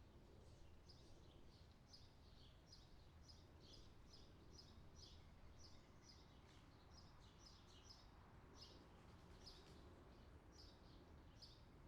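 Faint bird chirping: short high chirps repeating about twice a second, over a low steady outdoor rumble.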